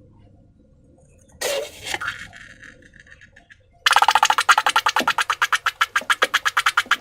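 Slime being squeezed and worked by hand. After a short wet rustle, it starts a fast, even run of sticky clicking pops, about nine a second, from about four seconds in.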